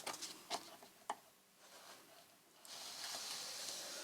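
A few light clicks and taps, then from nearly three seconds in a steady dry scraping as a fine stylus is drawn along a line, scoring paper on a scoring board.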